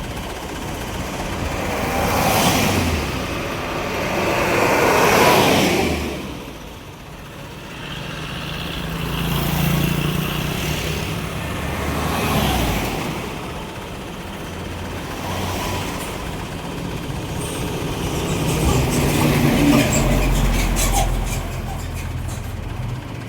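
Road traffic: vehicles passing one after another, each swelling and fading, with the low drone of heavy truck engines at times.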